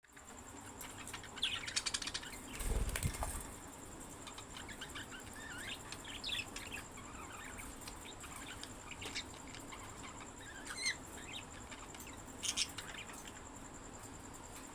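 Pet budgerigars chirping and chattering in short, scattered calls, with a brief burst of wing flapping about three seconds in.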